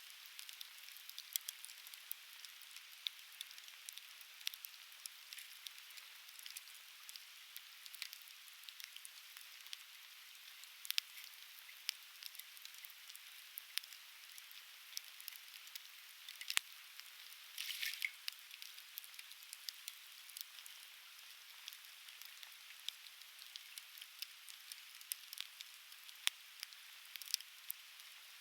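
Conifer firewood burning in a campfire, crackling with many sharp pops scattered irregularly over a steady hiss, and a brief burst of rapid crackles about 18 seconds in.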